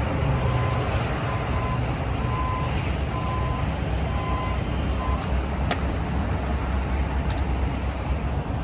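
Heavy diesel construction equipment running with a low, steady rumble, while a backup alarm beeps in a regular rhythm and stops about five seconds in.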